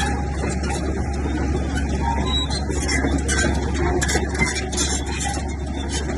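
Komatsu bulldozer's diesel engine running steadily at work, with a constant low drone and frequent rattles and clanks over it.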